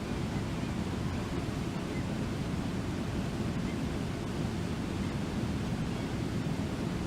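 Steady rushing roar of a waterfall, an even, unbroken noise that sits mostly low.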